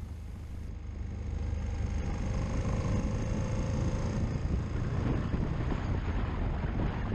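Motorcycle engine running at road speed, with wind rushing over the microphone; the sound gets louder about a second in.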